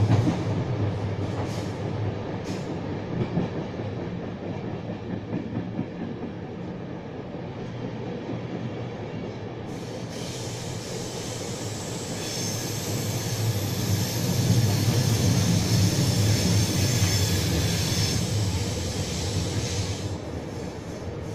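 Passenger train running, heard from inside the carriage as a steady rolling rumble. About halfway through, a high-pitched wheel squeal rises over it and dies away near the end.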